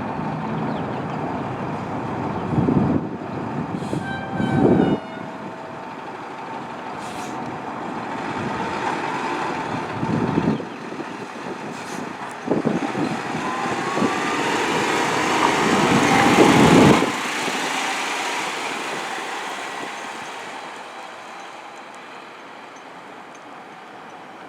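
Fire engine responding with its siren going and about five short blasts of its air horn, the loudest a longer blast about two-thirds of the way in; the engine then passes and its sound fades away.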